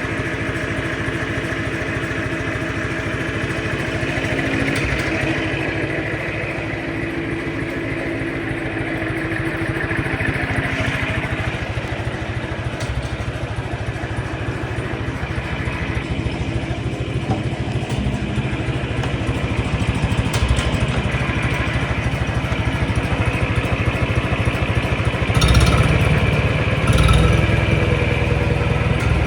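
John Deere 3010 tractor's four-cylinder engine running steadily on its new engine. There are two brief louder surges near the end.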